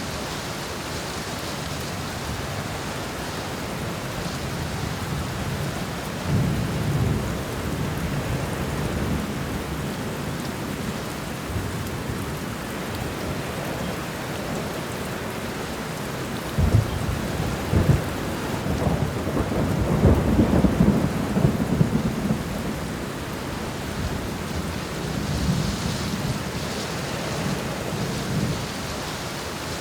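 Steady heavy rain with rolling thunder. There is a low rumble about six seconds in, a louder peal with sharp cracks a little past the halfway mark that rolls on for several seconds, and a softer rumble near the end.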